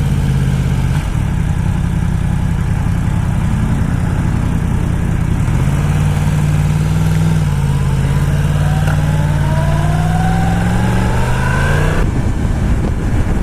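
Yamaha R1 inline-four sportbike engine running under the rider, steady at first, then climbing gradually in pitch as it accelerates from about halfway through, and dropping suddenly near the end as the throttle closes or it shifts.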